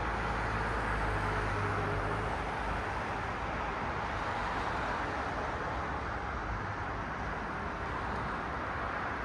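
Road traffic: the steady hiss of cars passing on a street, with a low engine rumble from a nearby vehicle in the first few seconds that then fades.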